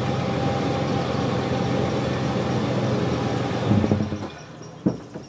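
Toyota FJ Cruiser's 4.0-litre V6 idling steadily through its stock exhaust. There is a brief swell at about four seconds, then the engine sound drops away, and a single knock follows.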